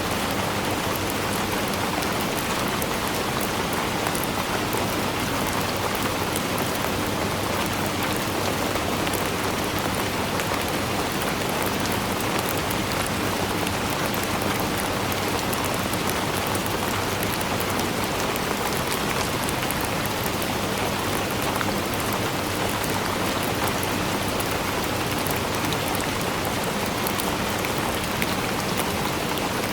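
Steady rainfall, a dense even hiss of drops with fine patter of individual drops hitting a surface.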